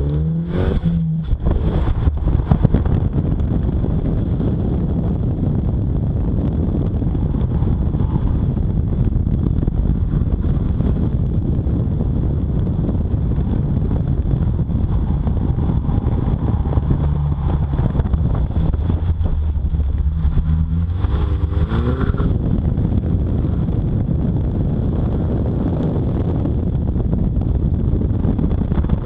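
Chevrolet Cobalt SS sedan's engine pulling hard and revving up and down as the car is driven at speed through an autocross course, heard over wind rushing past an outside-mounted camera.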